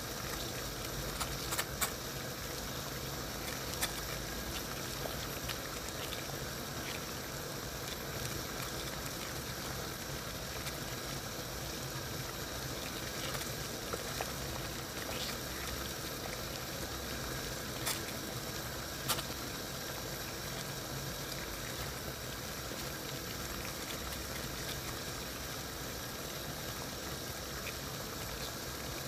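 Water boiling in a saucepan: a steady bubbling with a few sharp pops from bursting bubbles.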